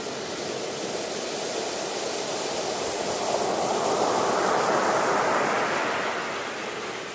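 Ocean waves washing ashore: a steady surf hiss that swells into one louder wave from about three seconds in, peaking a couple of seconds later and easing off near the end.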